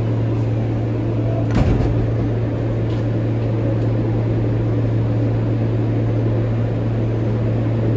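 Steady low hum and rumble inside an R143 subway car, with a single knock about one and a half seconds in.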